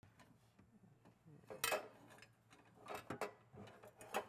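Several sharp metallic clinks and clanks of hand tools and exhaust-system hardware being handled, over a faint steady low hum.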